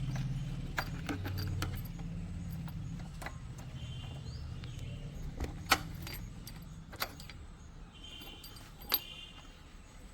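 Keys jangling on a motorcycle keyring with a few sharp clicks, the loudest about two-thirds of the way through. A low hum fades out over the first half, and birds chirp now and then.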